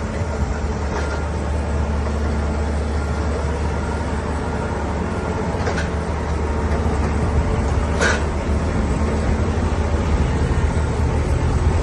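Steady low mechanical rumble like a running engine, with several steady tones above it and a brief sharp sound about eight seconds in.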